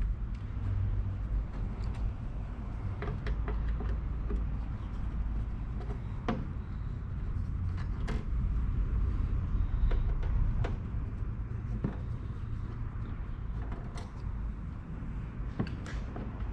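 Irregular clicks and knocks of small parts and tools being handled during work on a diesel heater, over a steady low rumble.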